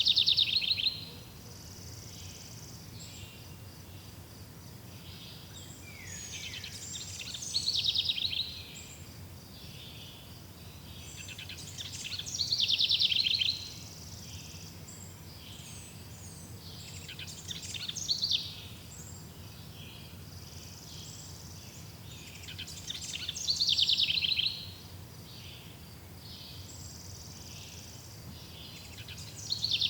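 A songbird repeating the same short, fast-trilled song phrase about every five seconds, six times in all. Between phrases there is a faint steady background of high chirping.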